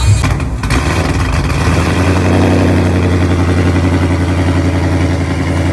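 Straight-piped supercharged 6.2-litre Hemi V8 of a Dodge Hellcat idling loudly and steadily, a deep even exhaust note that smooths out about a second in.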